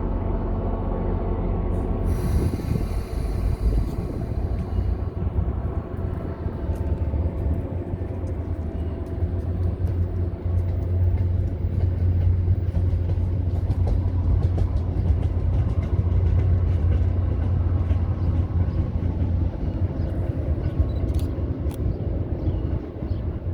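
MBTA commuter train passing: the diesel locomotive's engine hums at the start, then the cars roll by with a steady low rumble and frequent wheel clicks over rail joints. A brief hiss of air comes about two seconds in.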